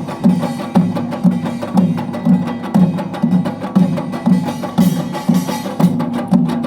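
Utdari samul nori percussion ensemble playing fast: rapid metallic strokes over steady drum beats about two a second.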